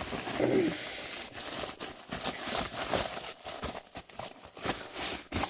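Packaging being handled: plastic and paper rustling with irregular taps and clacks as a boxed toy is taken out of a mailed package.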